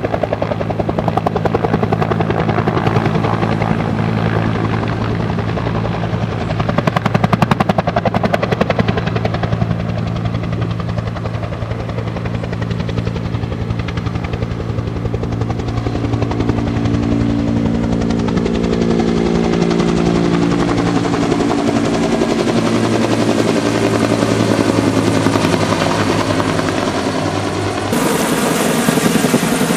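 Firefighting helicopter flying nearby, its rotor beating steadily over a whining turbine. The engine tones slide in pitch during the second half, and the sound changes abruptly near the end.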